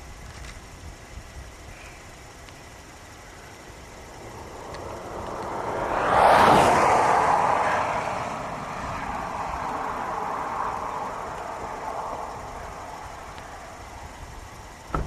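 A vehicle passing close by on the road: tyre and engine noise swelling to a peak a few seconds in, then slowly fading away. A short sharp knock near the end.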